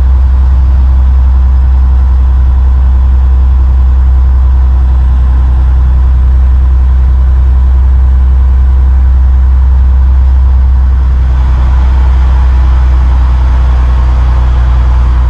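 Army truck's diesel engine running steadily while driving, a loud low drone with road noise, heard from inside the cab. The higher rushing noise grows somewhat about eleven seconds in.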